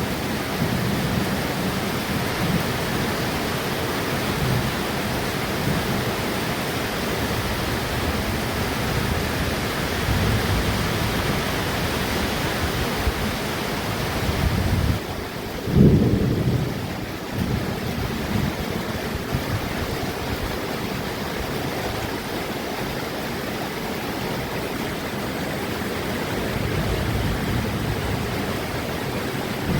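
Steady rain with thunder rumbling low in the background during a monsoon thunderstorm. A louder rumble of thunder swells up about halfway through, and the rain's hiss softens slightly just before it.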